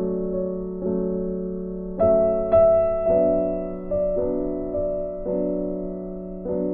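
Slow, gentle piano music: chords struck every half second to a second, each dying away before the next.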